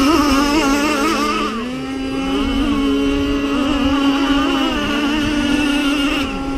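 Several radio-controlled racing powerboats running together, a steady high engine drone made of a few pitches that waver and briefly dip as the boats change speed.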